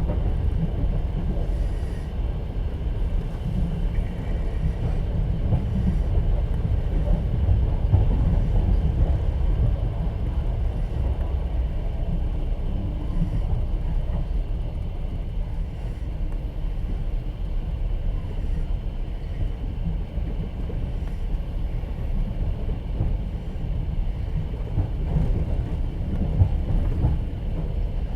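Steady low rumble of a moving passenger train heard from inside an open-plan sleeper carriage: the wheels running over the rails.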